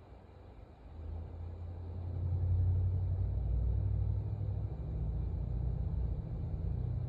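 Low, steady rumble of a motor vehicle, building up about a second in and then holding.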